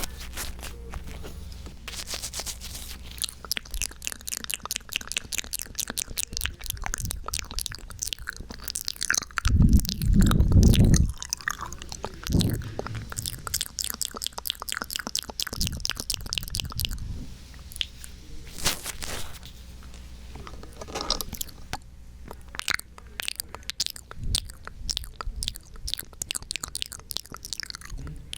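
Close-miked ASMR triggers into a 3Dio binaural microphone: dense, crackly clicks and moist crunching, with a loud low rumble of handling against the microphone about ten seconds in.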